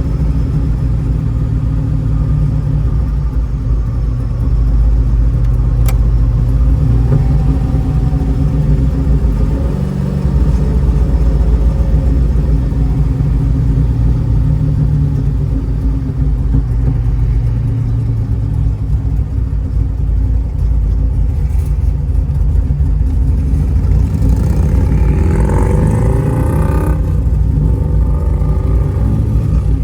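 1955 Chevrolet Bel Air's V8 engine running under way, a continuous low rumble whose pitch rises and falls as the car changes speed, with a rising and falling run of engine pitch near the end.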